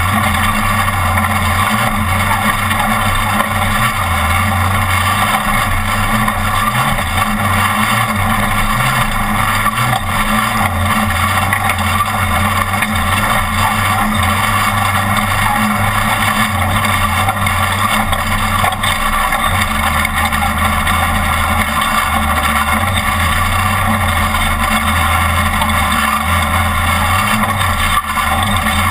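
Off-road race truck's engine running steadily under load at speed, with the engine note wavering slightly, mixed with a constant rushing noise.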